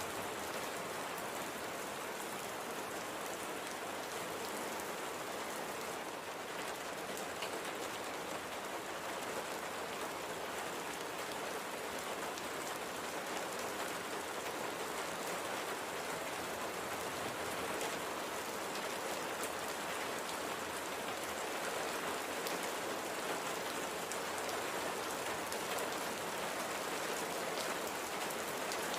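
Steady light rain falling, a dense even patter of drops on a surface with faint scattered drip ticks.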